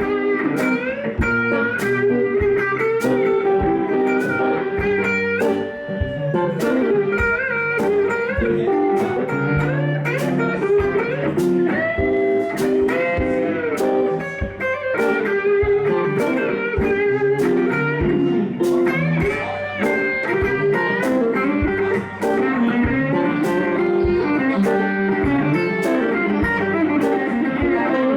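Blues guitar solo: an electric guitar playing lines with many bent notes over a band accompaniment with a steady beat.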